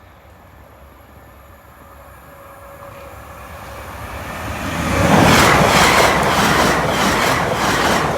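Class 720 electric multiple unit approaching and passing at speed. It grows louder over about five seconds, then becomes a loud rush of noise with quick repeated clicks of the wheels over the rail joints.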